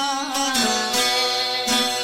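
Albanian folk music: a held note ends about half a second in, then a plucked string instrument plays a repeated instrumental figure.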